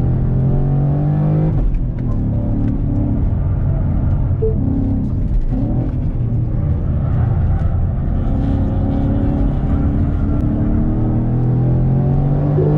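Ford Mustang engine heard from inside the cabin on track, pulling with a rising note, then dropping abruptly about a second and a half in. It runs lower for several seconds, then climbs in pitch again under acceleration near the end.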